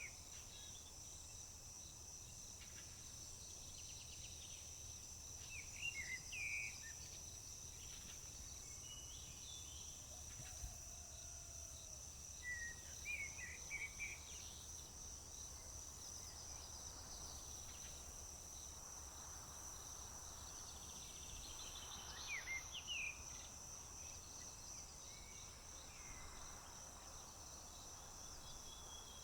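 Steady, rapidly pulsing high trill of crickets, with short chirping bird calls breaking in now and then, a few times over the stretch.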